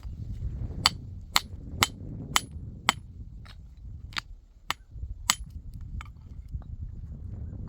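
A series of sharp knocks, about two a second, roughly nine strong strikes in a row, then a few fainter ones near the end.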